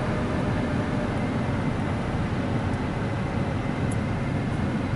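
Steady low rumble of tunnel car-wash equipment, heard from inside a vehicle's cab.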